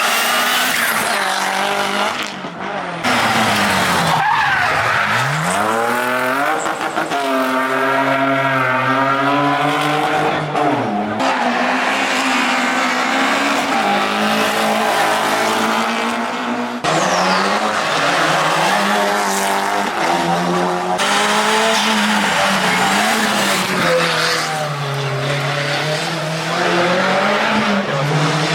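Competition cars on a hill climb, engines revving hard and rising and falling in pitch through gear changes and braking, with tyre squeal; the sound changes abruptly several times as one car gives way to another.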